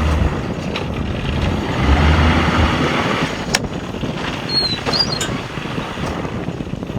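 Strong wind rushing over the microphone, with the sailboat's engine running low underneath and a few light clicks.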